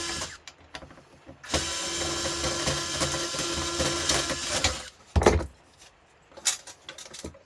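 Cordless drill-driver running steadily for about three seconds, backing screws out of an appliance casing, with a loud knock about five seconds in and a few sharp clicks near the end.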